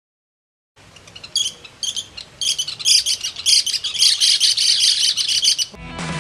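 Birds chirping in quick, dense runs of high notes, starting about a second in. Music comes in just before the end.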